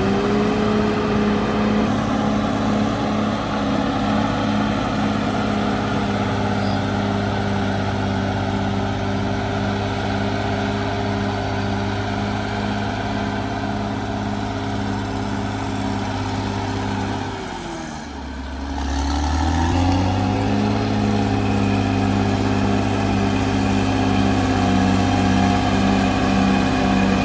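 Caterpillar D6R XL bulldozer's diesel engine running steadily at high revs. About two-thirds of the way through, the revs drop briefly, then climb back up.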